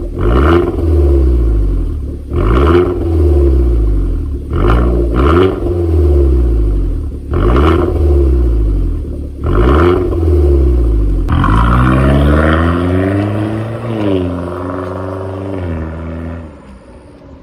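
Hyundai Genesis Coupe 2.0T's turbocharged four-cylinder engine heard through a custom valved mid and rear exhaust, revved repeatedly in short blips about every two seconds, the revs falling back after each. Near the end a longer rev rises and falls back to a steady idle, then the sound fades out.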